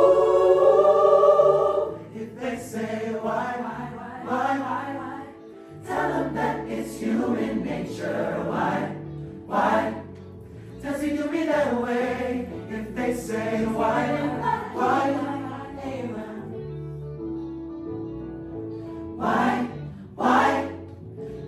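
Mixed choir singing. A full held chord in the first two seconds gives way to shorter sung phrases with brief gaps between them.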